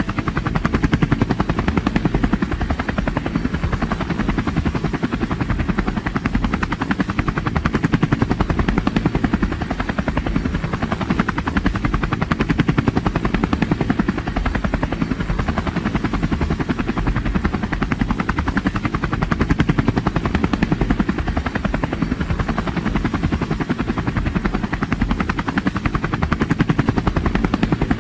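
Helicopter rotor chopping steadily with a fast, even beat, the engine and rotor noise strongest in the low range.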